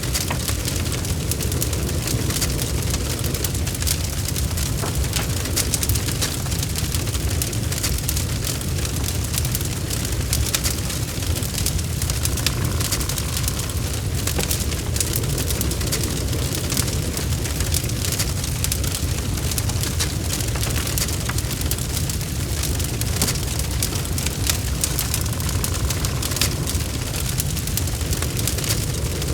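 Log fire burning in a fireplace: a steady low rumble of flames under frequent sharp crackles and pops from the burning wood.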